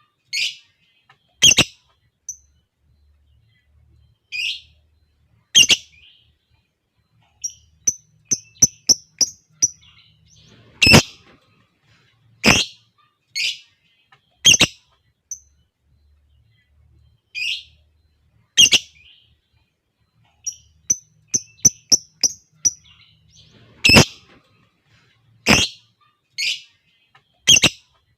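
Lovebirds calling, with sharp, shrill single calls every second or two. Quick runs of rapid short chirps come about eight seconds in and again around twenty-one seconds.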